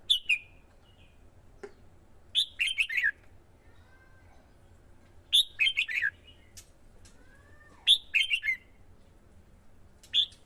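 Red-whiskered bulbul singing short, loud phrases of quick notes, one about every two and a half seconds, five in all, with faint gliding whistles between them.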